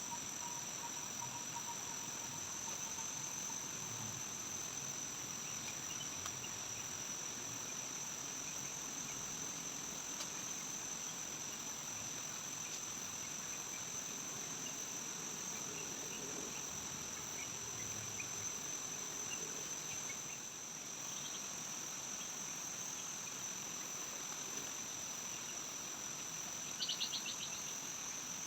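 Forest insects calling in a steady, unbroken high-pitched drone. Near the end a short, rapid rattling call stands out above it.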